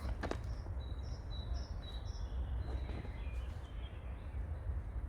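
Small birds chirping in short, high notes, several in the first few seconds, over a steady low rumble.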